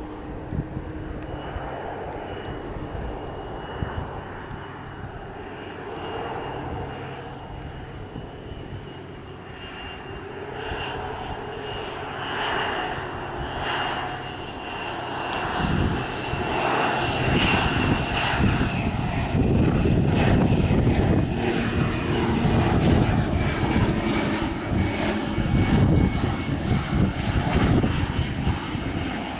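Airplane engines running with a steady high whine over a low rumble, growing louder from about halfway through as the airplane lands. Wind rumble on the microphone.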